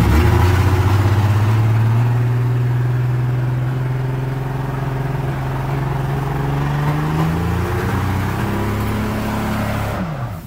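Holden VY Commodore engine held at high revs, its pitch climbing slowly over several seconds and then dropping away near the end.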